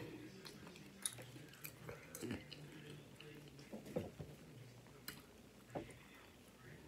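Quiet chewing with soft wet mouth clicks, a handful of them scattered through, from someone eating.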